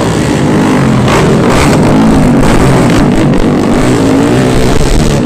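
Motorcycle engine running loud and revving, its pitch rising and falling.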